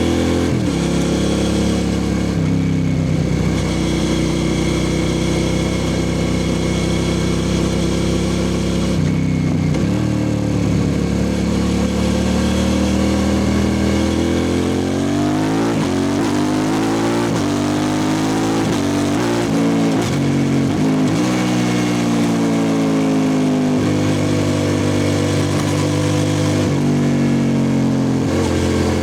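The 645 cc V-twin of a 2003 Suzuki SV650S, running through a Lextek exhaust with no dB killer. It holds a steady pitch for about half the time, then revs up in several quick rises with brief breaks between them. After that it falls back and settles at a steady pitch again near the end.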